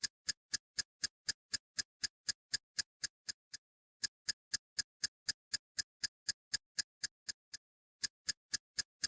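Clock ticking sound effect, a fast even run of sharp ticks about four a second with two short breaks, over complete silence: an edited-in time-passing effect.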